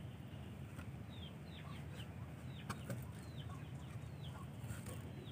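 Birds peeping in the background: short, high chirps that fall in pitch, a few each second, over a steady low hum, with a sharp click a little past halfway.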